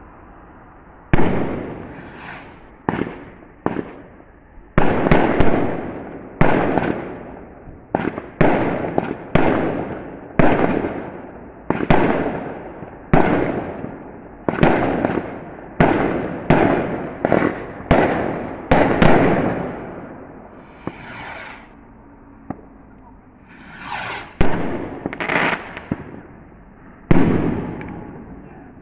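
Fireworks going off in quick succession: a long run of sharp bangs, roughly one a second, each trailing off in a rumbling echo, with a short lull about two-thirds of the way through.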